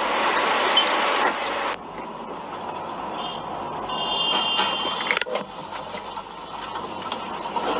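Vehicle road and engine noise from a dashcam that changes abruptly about two seconds in, then short high electronic beeps around three and four seconds in and a sharp knock a little after five seconds.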